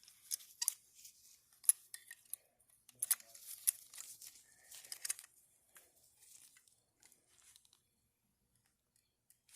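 Scattered light clicks and scrapes of small metal parts and tools being worked on a Quadrajet four-barrel carburetor, as its secondary barrels are bent back into line so they open fully. It goes quiet for the last couple of seconds.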